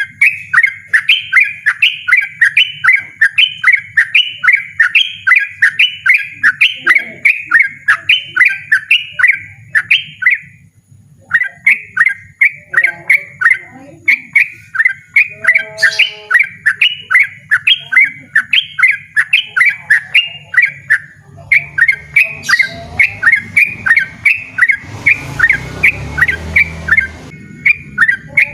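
Yellow-vented bulbul (trucukan) singing a long rapid run of repeated sharp notes, about three a second, with a short break about ten seconds in. A rustling noise joins near the end.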